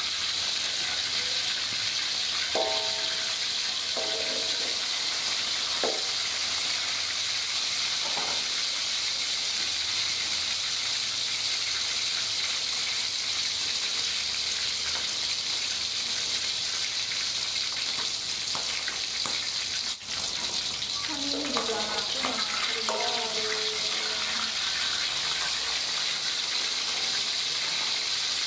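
Chicken pieces shallow-frying in hot oil in a wok, a steady sizzle; this is the first fry that part-cooks the chicken.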